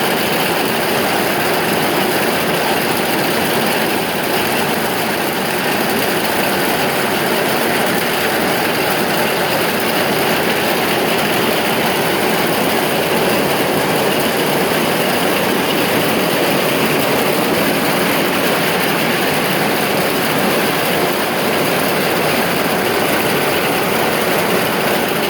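A heavy downpour falling steadily: a dense, even hiss with no let-up.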